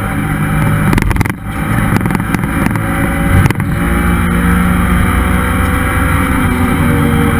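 Honda S2000's F20C four-cylinder VTEC engine running hard on track, with two brief breaks in its note about one and three and a half seconds in, then holding a fairly steady pitch.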